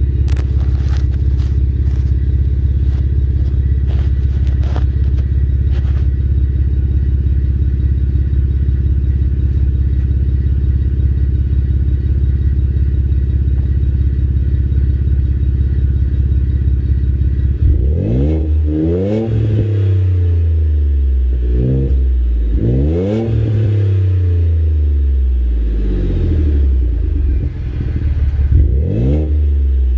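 Ford F-150's 2.7-litre twin-turbo EcoBoost V6 exhaling through a 4-inch exhaust with a Flowmaster Super 40 muffler and no resonator: it idles steadily for most of the first half, with a few light clicks early, then is revved up and let fall back about four times in the second half.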